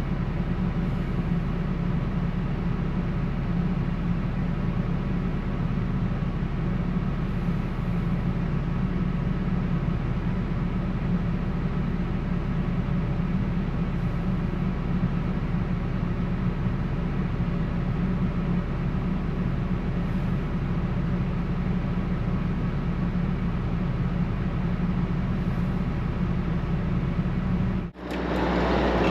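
Steady drone of a running vehicle engine, a low even hum that holds unchanged; it breaks off briefly near the end and gives way to a different steady engine sound.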